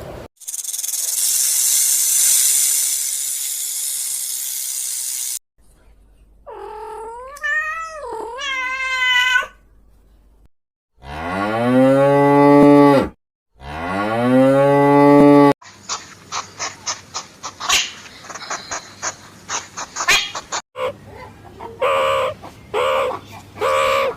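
A string of separate animal sound clips: about five seconds of steady high hiss, a wavering call, then two long, loud cow moos falling in pitch. These are followed by rapid ticking and a run of short repeated calls.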